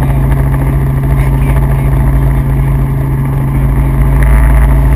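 Helicopter's rotor and engine noise, a loud, steady drone that grows slightly louder near the end.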